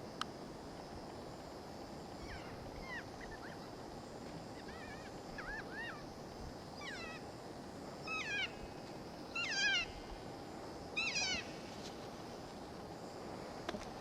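Kea calling: a series of about seven screeching, cat-like calls that start a couple of seconds in and grow louder, the last two the loudest.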